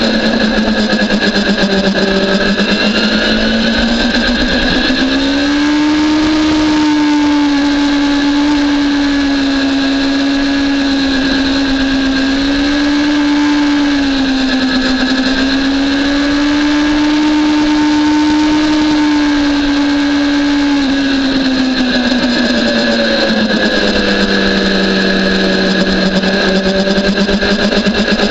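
BMW S1000RR's inline-four engine running steadily at part throttle, cruising at low speed rather than racing. Its pitch rises a little about five seconds in, wavers gently, and drops back a couple of seconds before the end.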